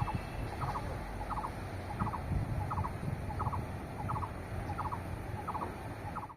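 A bird calling over and over: a short, rattling call repeated about every three-quarters of a second, over a low rumble.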